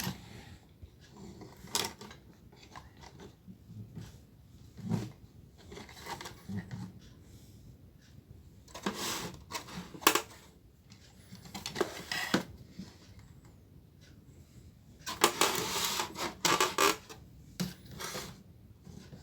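Scattered clicks, knocks and light rattles from a TV circuit board being handled and turned over on a workbench, coming in short clusters with quiet gaps, busiest about fifteen to seventeen seconds in.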